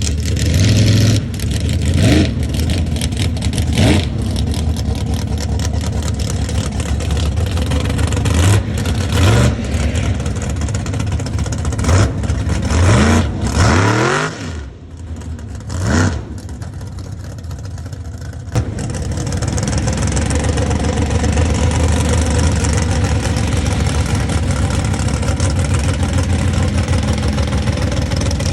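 Mega truck's engine revved in a series of short blips, each rising in pitch, the engine sound dipping briefly about halfway through and then settling into a steady, loud drone.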